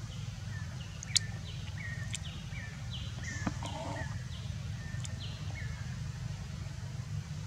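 Birds calling in the forest canopy: a run of short, high chirps repeated two or three times a second, fading out after about five seconds, over a steady low rumble. A sharp click sounds about a second in.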